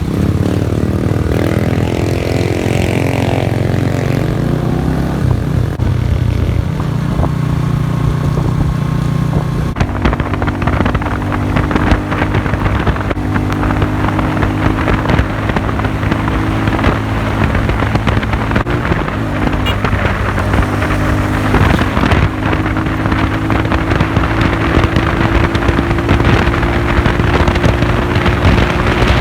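Classic Earl 150 cafe racer motorcycle engine running under way, its pitch shifting up and down in steps over the first ten seconds, then holding a steady cruise with a slow rise near the end. Wind rushes over the microphone throughout.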